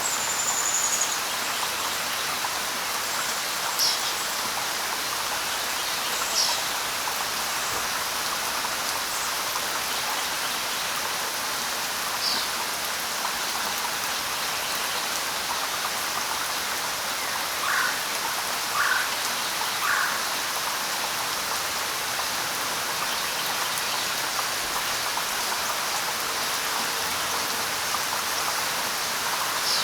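Steady light rain pattering on leaves, with a few short high bird chirps. Near the middle come three short, lower calls in quick succession.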